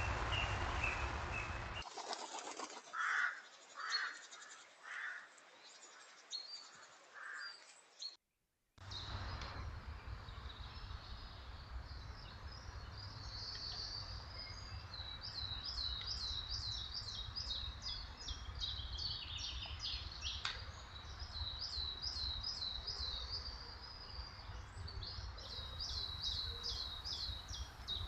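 A few short, loud wing flaps from wood pigeons early on. After a brief cut, a small songbird sings repeated quick trilled phrases, high-pitched, over a steady low rumble.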